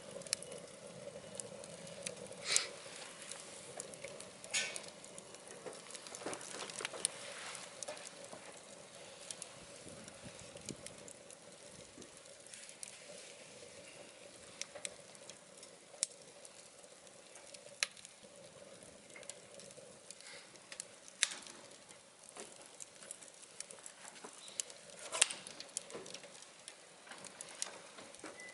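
Scrap-timber fire burning in a wood-burning stove: irregular crackles and pops over a low hiss, with a few louder snaps. A faint steady hum sits under it and fades about a third of the way in.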